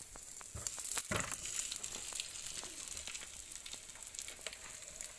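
Beef patties sizzling a little in hot oil in a nonstick frying pan, a steady high hiss. A few light knocks about a second in as another patty is set down in the pan.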